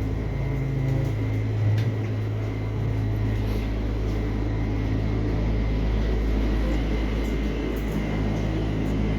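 Steady low mechanical rumble and hum, with a faint high whine held on one pitch.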